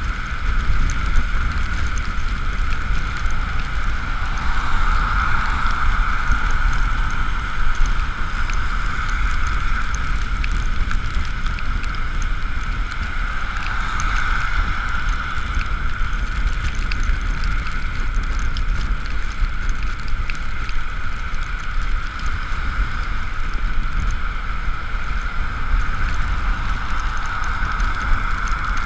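Ekoway ML5000 electric vehicle on the move: a steady high motor whine that swells and fades several times, over low wind rumble on the camera microphone.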